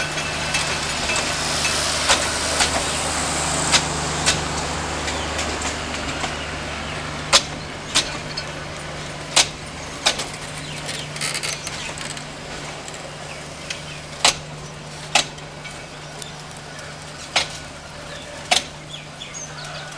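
Coaches of a metre-gauge intercity passenger train rolling past, a steady rumble with the wheels clacking over rail joints, often in pairs. The rumble slowly fades as the train draws away.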